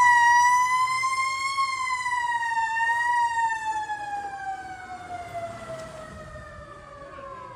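Emergency vehicle siren: one long high tone that wavers slightly, then slowly falls in pitch and fades.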